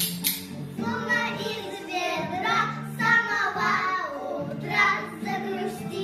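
A child singing a song over musical accompaniment with steady held bass notes; two sharp clicks sound right at the start.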